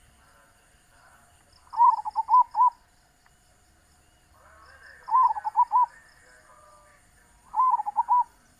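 Zebra dove (perkutut) cooing: three phrases of its rolling coo, each a quick run of four or five notes, spaced about three seconds apart.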